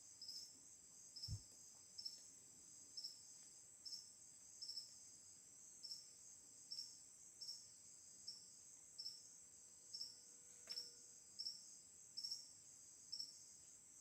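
Faint chorus of crickets: a steady high-pitched trill with a short chirp repeating about every three-quarters of a second. A soft low thump about a second in.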